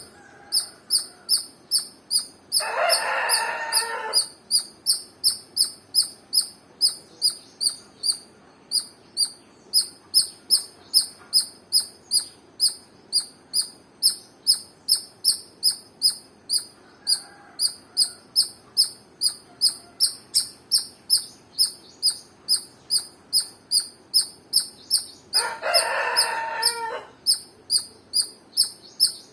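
A squirrel chirping: short, high-pitched chirps repeated steadily about twice a second. A rooster crows twice in the background, near the start and again near the end.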